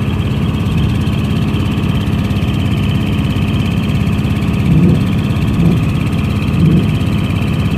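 Large truck engine idling steadily, with a few louder swells about once a second in the second half.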